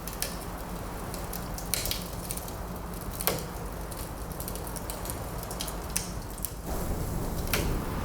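Wood fire crackling, with scattered sharp pops and snaps, the loudest a little past three seconds in, over a steady low wind sound.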